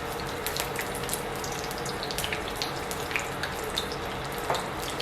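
Egg rolls deep-frying in hot peanut oil: a steady sizzle with frequent small crackles and pops, over a faint steady hum.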